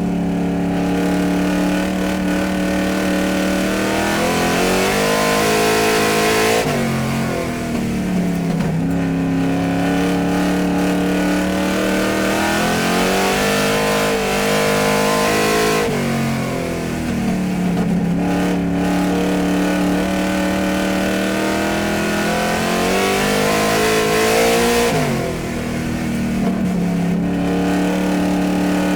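Car engine revving in repeated cycles: the pitch climbs slowly over several seconds, then drops back sharply, about every nine seconds.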